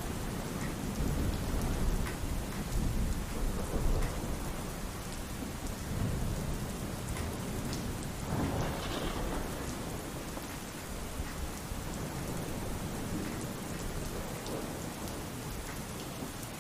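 Pouring rain falling steadily, with low rumbles of thunder.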